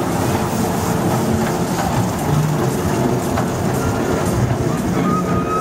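Small ride-on kiddie train running past on its narrow-gauge track, the locomotive and open passenger cars rolling by. A thin steady high tone comes in near the end.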